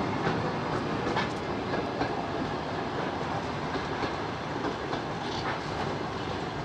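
Passenger train hauled by an EP1 electric locomotive rolling into a station, with a steady rolling rumble and irregular wheel clicks over the rail joints.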